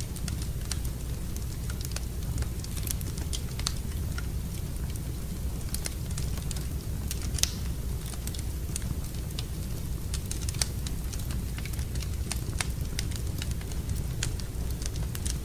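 Fireplace fire crackling: irregular sharp pops and snaps over a steady low rumble, with the loudest pops a little after seven seconds in and again about ten and a half seconds in.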